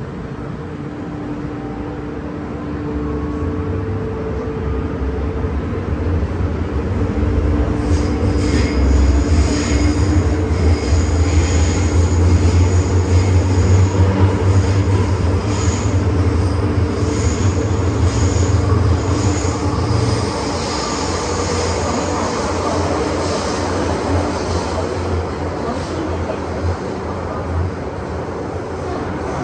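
MTR M-Train electric multiple unit running, heard on board: a deep rumble of the wheels on the track grows louder and then eases off, with a high-pitched wheel squeal coming and going in the middle. A steady hum at the start fades as the rumble builds.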